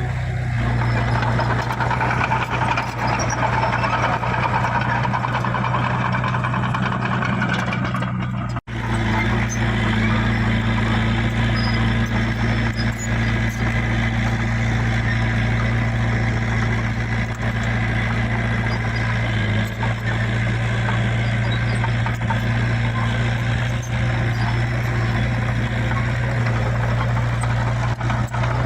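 Heavy earth-moving machinery's diesel engine running steadily at constant speed, with an even low hum, and a brief sudden break about eight and a half seconds in.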